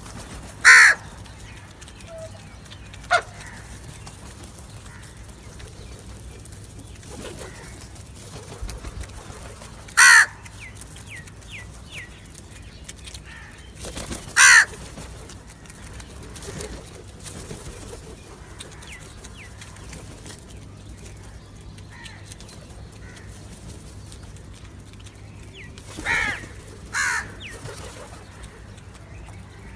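Crow cawing: about six single harsh caws at irregular intervals, with two in quick succession near the end. Faint, quick chirps of smaller birds sound in the gaps.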